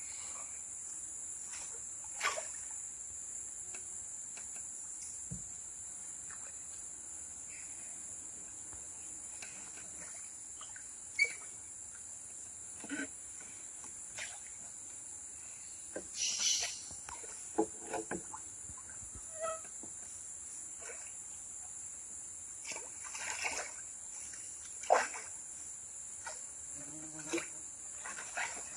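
Steady high-pitched chorus of insects, with scattered short knocks and a few splashes of water.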